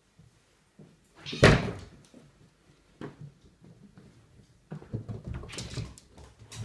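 Wooden cupboard door knocked by a cat butting its head against it: one loud bang about a second and a half in, a lighter knock a little later, then a run of rattling bumps near the end.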